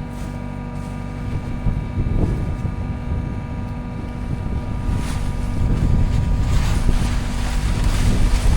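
Skid steer loader engine running with a steady hum and rumble, getting louder and noisier from about five seconds in as it works.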